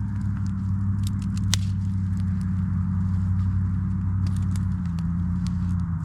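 Campfire crackling, with scattered sharp pops of burning wood, the loudest about a second and a half in. Under it runs a steady low hum that drops slightly in pitch near the end.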